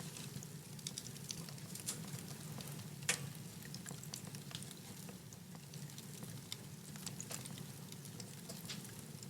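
Wood fire in a fireplace crackling, with many small irregular pops and one louder pop about three seconds in, over a steady low hum.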